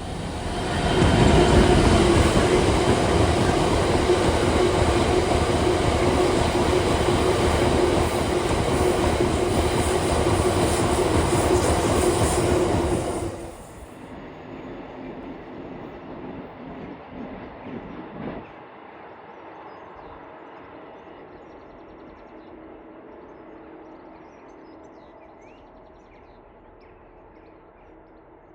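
A train passing close by at speed, loud and steady for about twelve seconds with a sustained tone running through it. It then drops away suddenly and fades into the distance.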